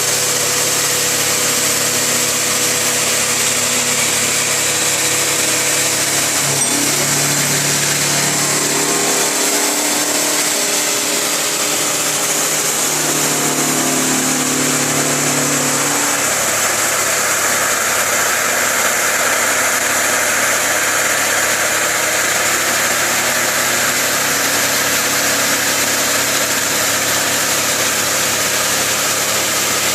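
CNC milling machine cutting a steel plate: a steady machining noise with a tone that shifts in pitch for several seconds partway through.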